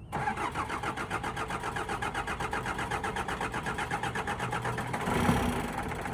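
Mitsubishi 4D31 four-cylinder diesel engine running with an even, rapid pulsing beat, then a louder surge about five seconds in.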